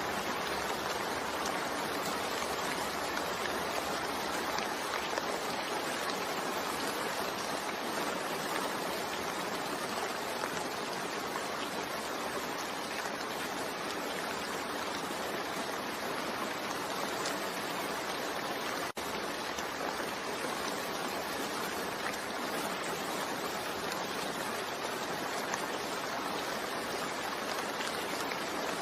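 Steady rain falling: an even hiss, with a split-second dropout about two-thirds of the way through.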